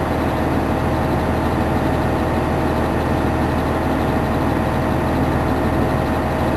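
Fire engine's diesel engine running steadily, a constant low hum with a faint steady whine.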